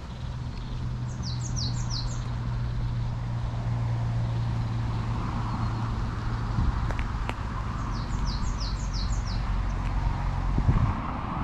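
A small songbird calls twice, each time a quick run of five or six high, sharply falling notes, over a steady low hum and rumble.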